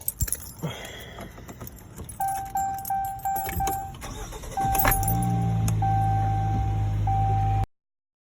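Keys jangle, and the 2019 Jeep Cherokee's warning chime beeps repeatedly. The engine cranks and catches about five seconds in, then settles into a steady cold-start idle, with the chime still sounding over it.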